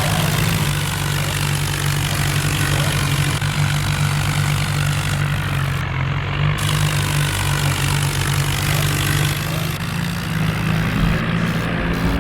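Tractor diesel engine running steadily, with a strong low drone.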